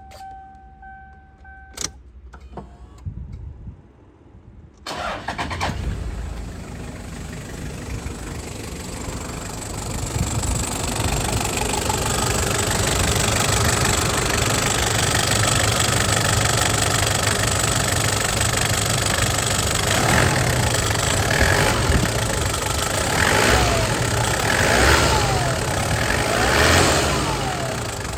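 A steady electronic warning tone sounds for about two seconds. Then, about five seconds in, the 1996 Toyota Land Cruiser Prado's 1KZ-TE turbo diesel starts and settles into an idle that grows louder, with a few short revs near the end.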